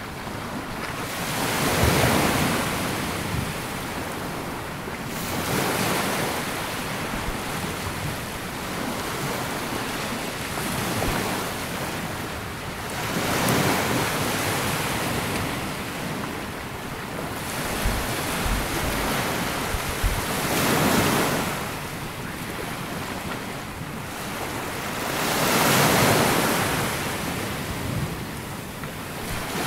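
Sea waves breaking and washing up a sandy beach, swelling louder every few seconds as each wave comes in.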